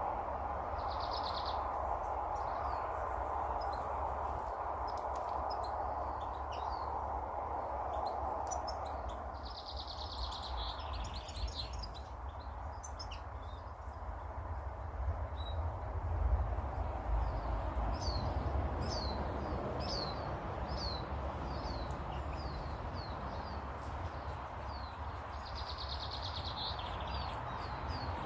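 Small garden birds calling: scattered short high chirps, a few brief trills, and a run of quick falling notes in the second half, over a steady low rumble.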